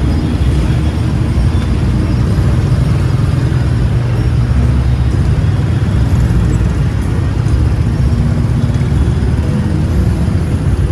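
Steady engine and road noise of a motorbike riding through city traffic.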